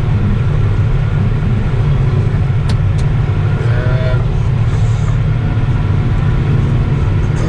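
Tractor engine running at steady revs, a deep, even drone, with two sharp clicks about three seconds in.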